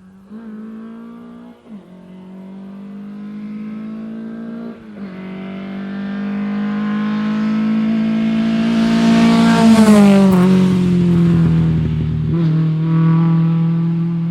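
Lada rally car's four-cylinder engine at high revs, shifting up through the gears with sharp dips in pitch about a second and a half and five seconds in. It grows louder as it approaches, passes close about ten seconds in with a falling pitch, then pulls away.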